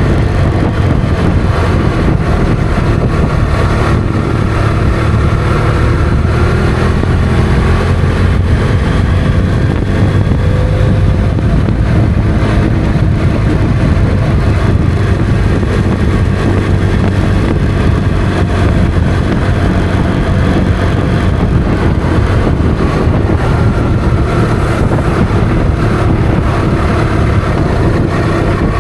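Motorcycle engine running on the road with a strong rush of wind on the microphone, its pitch drifting slowly up and down with the throttle.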